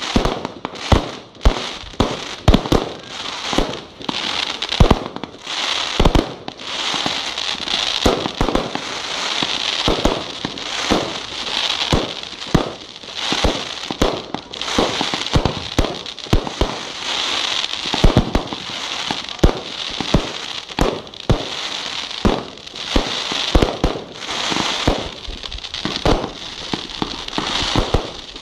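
Aerial fireworks bursting in quick succession: many sharp bangs, often several a second, over a continuous hiss.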